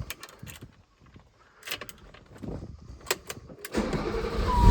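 A few light clicks from the key and controls, then about a second before the end the cold 1986 BMW M635CSi's straight-six is cranked and catches, its sound swelling sharply. A steady high tone comes in just before it fires.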